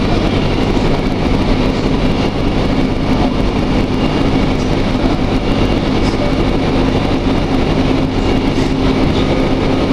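Inside a moving diesel passenger train: the steady running noise of the train under way, with a low hum holding one pitch.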